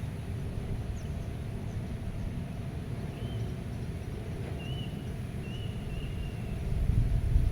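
Outdoor meadow ambience: a low wind rumble on the microphone that swells in gusts near the end, with faint birds calling over it. A couple of tiny high chirps come early, then several brief calls in the middle.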